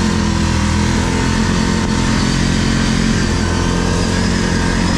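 ATV engine running steadily while the quad pushes through deep snow.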